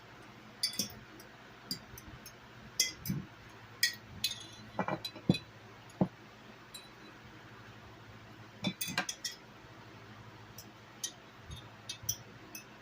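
Utensil clinking and tapping against a glass pickle jar as bread and butter pickle slices are fished out, in short clusters of clinks every few seconds.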